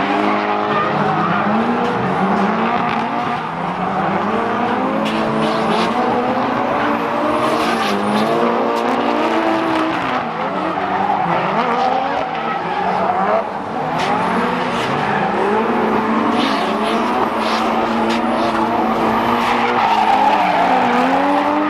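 Drift cars at full throttle, engines revving up and down as they slide, several at once, with tyre squeal throughout.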